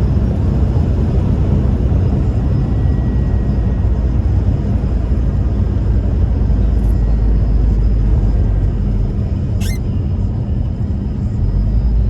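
1998 Toyota Tacoma 4WD pickup on the move: steady low engine and road rumble. A brief high chirp rises sharply about ten seconds in.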